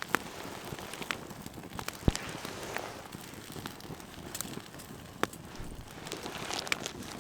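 Wood fire crackling, with a few scattered sharp pops over a steady hiss.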